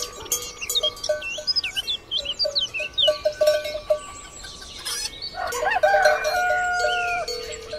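Bells on the collars of grazing cows clanking and ringing irregularly, with birds chirping. About five seconds in, a louder animal call with a long held note lasts about two seconds.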